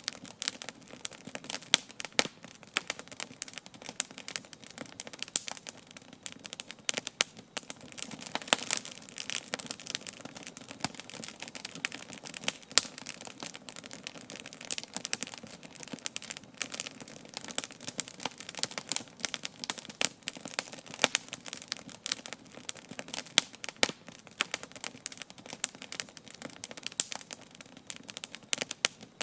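Wood campfire crackling, with frequent irregular sharp pops and snaps over a steady hiss of burning.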